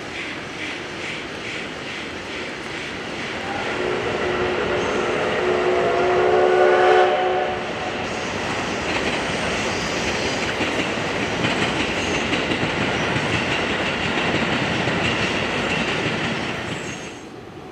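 Steam locomotive C57 1 under way in a test run, its exhaust beats chuffing in a quick rhythm. About four seconds in its steam whistle sounds for around four seconds, the loudest moment. The chuffing carries on, then drops away suddenly near the end.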